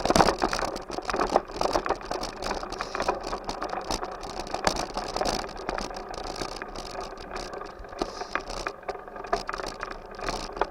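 Bicycle being ridden, its frame and parts rattling, with many small knocks and clatters over a steady rush of noise.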